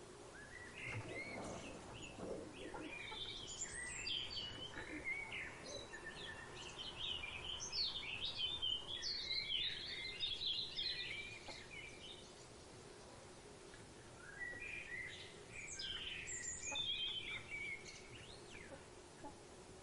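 Several birds chirping and calling in quick overlapping phrases, busiest for the first half, easing off, then picking up again. A faint steady hum lies underneath.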